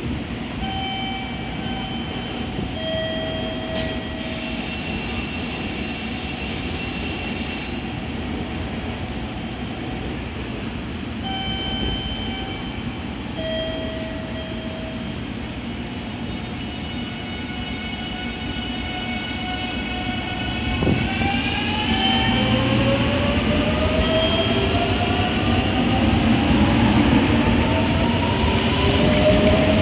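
JR Kyushu 883 series electric train standing with a steady hum and short electronic tones, a buzz lasting about four seconds near the start. It then pulls away: its motors' whine climbs in steps of rising pitch over the second half, with a thump about 21 seconds in and the running noise growing louder as the carriages pass.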